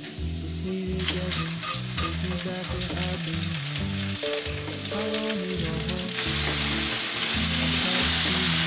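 Frying pan on a lit gas burner, sizzling and crackling once liquid goes into the hot pan. About six seconds in, food slid in from a cutting board sets off a louder, steady sizzle. Background music plays underneath.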